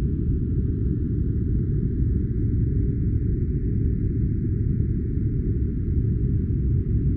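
Steady, low-pitched white-noise track: an even, deep hiss that never changes over the whole stretch.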